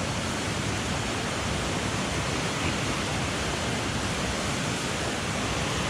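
Steady rushing of a mountain stream, an even wash of water noise with no break or change.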